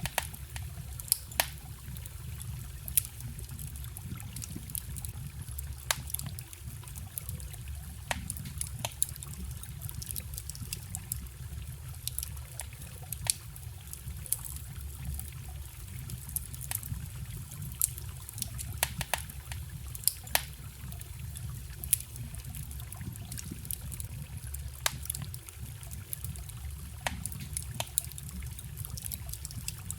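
Wood fire crackling, with sharp irregular pops, over the steady low rush of a forest stream.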